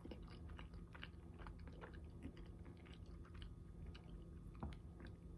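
Faint close-up chewing of a mouthful of food, the mouth closed, with a scatter of soft clicks.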